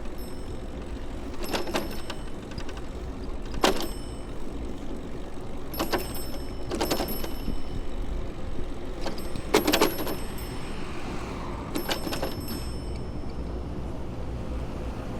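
Riding a bicycle through city traffic: a steady deep rumble of wind and road noise, broken every second or two by sharp metallic rattles that ring briefly as the bike jolts over bumps.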